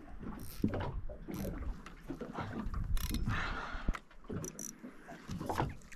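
Irregular clicks, rattles and rubbing from fishing tackle being handled, with a short pair of high clicks about four and a half seconds in.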